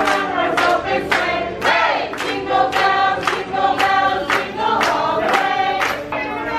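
A choir singing over music, with a steady beat of about two strokes a second.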